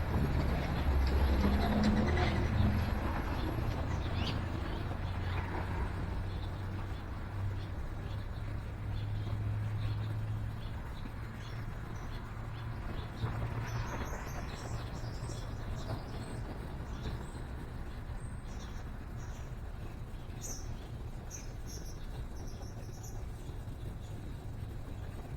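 Small birds chirping in short, high calls through the second half, over the low rumble of road traffic that is strongest in the first ten seconds or so and then fades.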